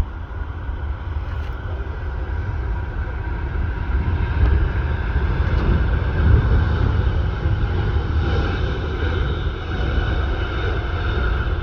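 Jet airliner's engines at takeoff power, a steady loud rumble with a faint whining tone above it, growing a little louder about four seconds in.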